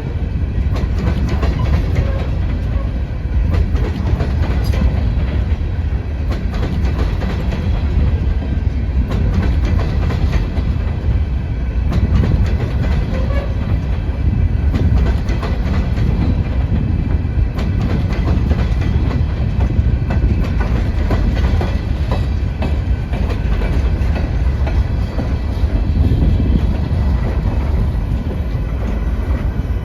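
Norfolk Southern coal train's freight cars rolling past, a steady low rumble with wheels clicking over rail joints.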